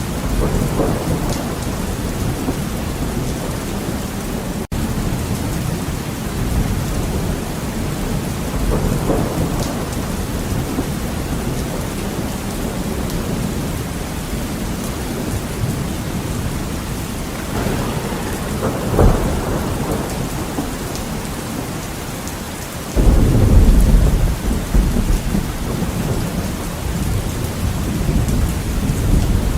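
Heavy rain pattering steadily on a window, with thunder rolling in and out several times. A sudden loud thunderclap comes about three-quarters of the way through and rumbles on for a few seconds.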